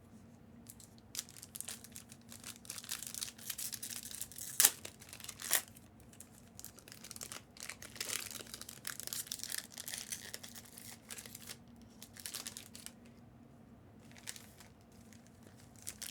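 Plastic packaging crinkling and tearing as it is handled, in irregular rustling patches, with two sharp snaps about four and a half and five and a half seconds in.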